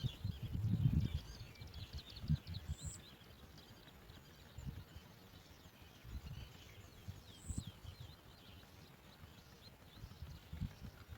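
Small birds chirping: many short, high chirps scattered through, with low rustling thumps in the first second or so.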